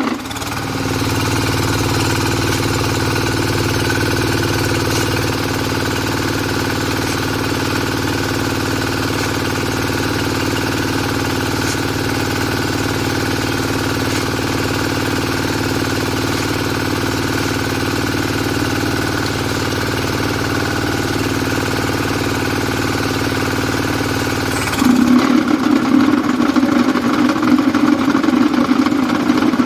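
Diesel engine of a QTJ4-40 hydraulic interlocking block machine running steadily. About 25 seconds in, the sound changes abruptly to a louder, rougher running.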